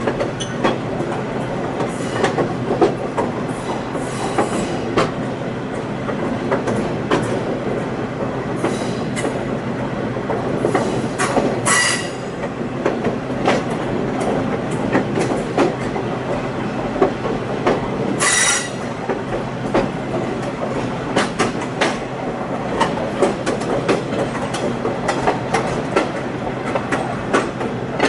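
Passenger train car rolling along with a steady rumble, its wheels clicking over rail joints, and the wheel flanges squealing sharply twice, about twelve seconds in and again six seconds later.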